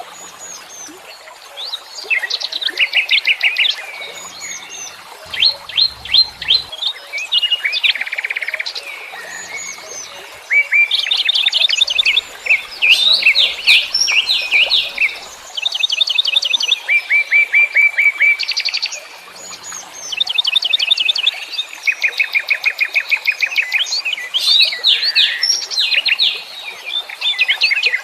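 Several wild songbirds singing and chirping together, with many quick trills of rapidly repeated high notes overlapping one another.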